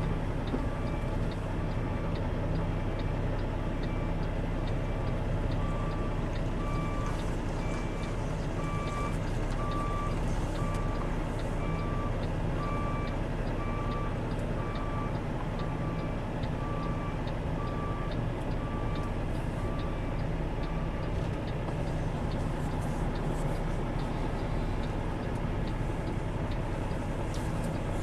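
Kenworth T680 semi truck's reversing alarm beeping about once a second over the steady run of its diesel engine as it backs up, with the faint regular ticking of the hazard flashers; the beeping stops about three quarters of the way through while the engine keeps running.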